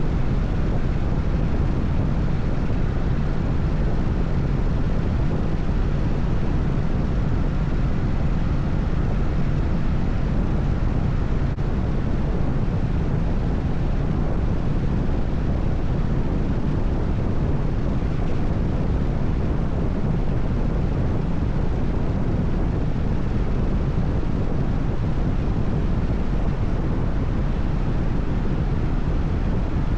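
Harley-Davidson FXSTS Springer Softail's air-cooled Evolution V-twin running at a steady highway cruise, its exhaust note even throughout.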